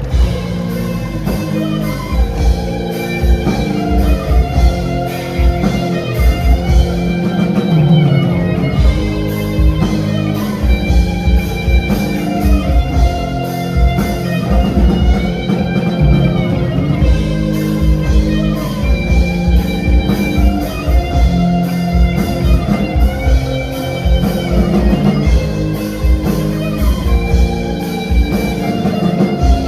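Live rock band playing: electric guitars over bass and a steady drum-kit beat.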